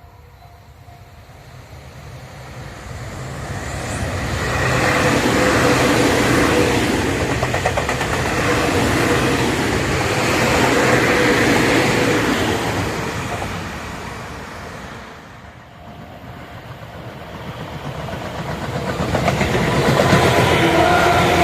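Tobu Tojo Line electric train passing: it grows louder over the first few seconds, stays loud for several seconds, then dies away about three-quarters of the way through. A second train then approaches, getting louder toward the end.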